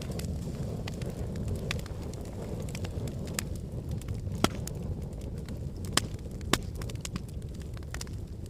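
Wood fire burning in a fireplace: a steady low rumble of the flames with frequent sharp crackles and pops, the loudest pops about four and a half and six seconds in.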